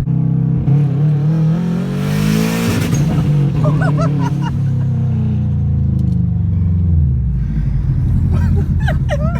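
Turbocharged Subaru EJ205 flat-four with a Garrett GTX3576R turbo revved once: the pitch climbs for about two seconds, a hiss joins at the top of the rev, then the revs fall slowly back to idle over several seconds. The rev makes about 10 psi of boost.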